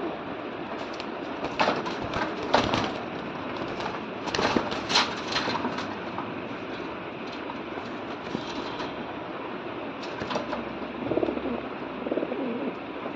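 Pigeons fighting: low cooing calls, loudest near the end, and several sharp clattering bursts in the first half and again past the middle, over a steady background noise.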